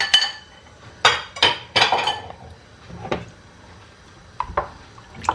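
Kitchen utensils clinking and knocking against a pot and dishes: a handful of separate sharp clinks, most of them between about one and two seconds in, with a few lighter ones near the end.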